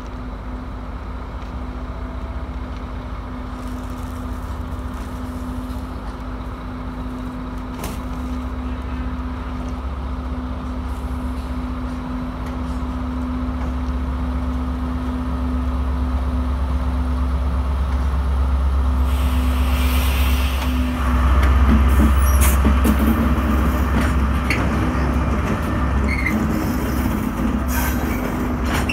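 Class 73 locomotive's engine running with a steady hum and rumble, slowly growing louder as it draws near. About two-thirds of the way through, the train's wheels and brakes grind and squeak as it rolls past at walking pace.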